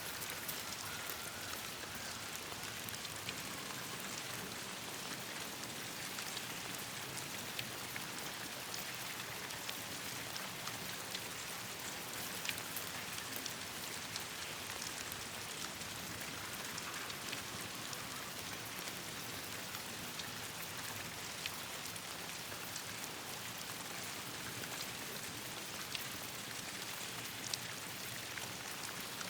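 Steady rain falling on leaves and ground, a dense even hiss with many scattered sharp ticks and pops.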